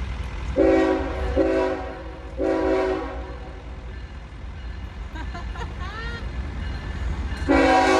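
A train's multi-chime air horn sounds three blasts in quick succession, then a fourth near the end, over a steady low rumble.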